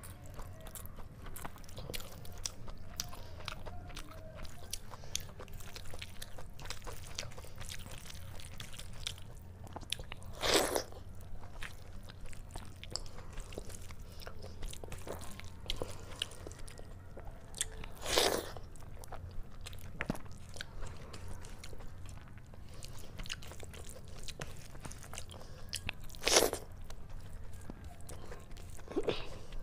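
Close-miked eating of chicken curry and rice: wet chewing and mouth clicks throughout, with three louder mouth sounds about eight seconds apart, over a steady low hum.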